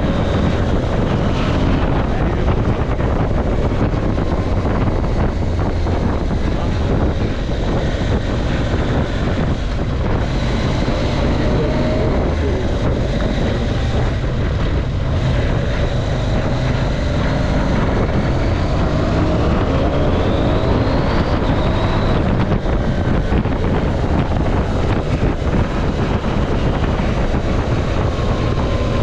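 KTM 790 Adventure's parallel-twin engine running on the move, its revs rising and falling through the ride, with wind rushing over the camera microphone.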